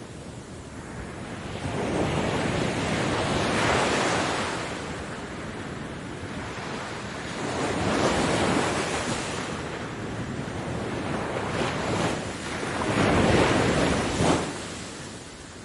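Waves breaking on a beach: three surges of surf swell up and wash back, peaking about 4, 8 and 13.5 seconds in.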